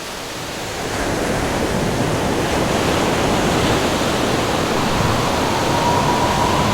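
Continuous rushing noise of wind and surf, swelling about a second in, with a faint whistling howl of wind creeping in near the end.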